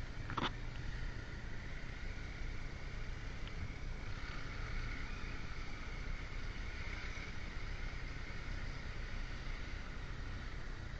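Motorcycle riding at a steady pace, its engine running evenly under wind and road noise. A brief sharp click about half a second in.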